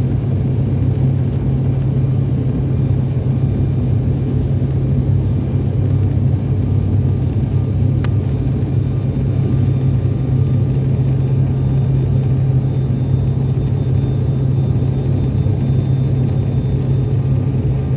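Airliner's steady low rumble, unchanging throughout, with one faint tick about eight seconds in.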